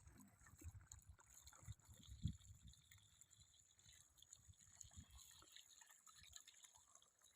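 Near silence: faint outdoor room tone with a few soft low thumps, the clearest about two seconds in.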